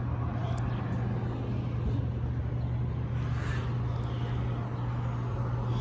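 Vehicle engine running with a steady low hum over even traffic noise.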